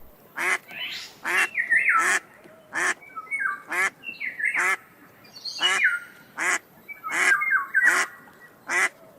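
Ducks quacking over and over: a rapid run of about a dozen loud, harsh quacks, with softer calls from other birds overlapping between them.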